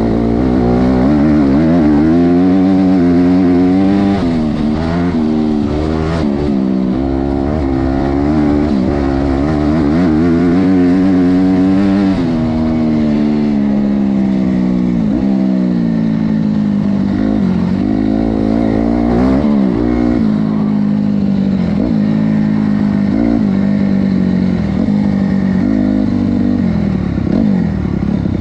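Honda CRF250R's single-cylinder four-stroke engine being ridden, revving up and falling back again and again, its pitch climbing and dropping every second or two. Near the end the engine settles to a lower, steadier note.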